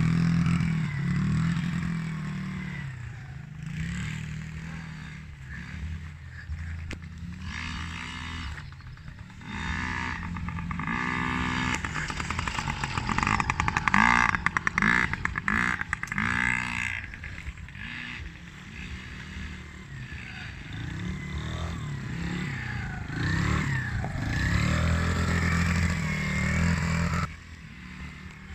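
Off-road racing engines on a motocross track revving up and down again and again as riders accelerate and back off. Loudest about halfway through, when a machine runs close by, and quieter near the end.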